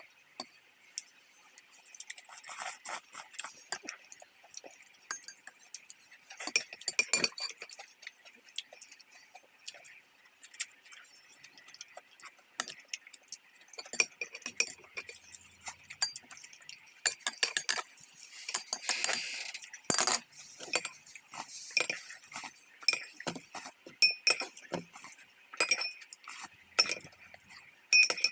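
Chopsticks and spoons clinking against bowls and dishes during a hotpot meal, in many irregular sharp clicks, mixed with close-up eating sounds.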